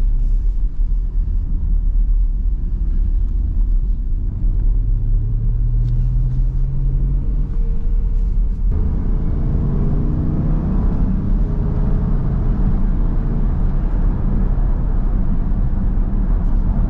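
Car engine heard from inside the cabin, pulling harder from about nine seconds in with its pitch climbing, over a steady low road rumble.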